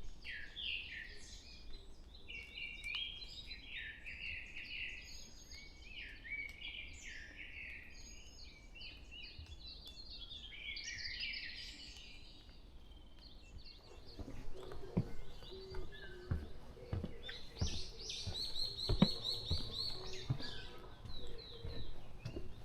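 Wild birds singing at dawn in a forest, several overlapping songs of quick, high sliding phrases. After about fourteen seconds, footsteps thud along the trail while a bird gives a fast series of high repeated notes.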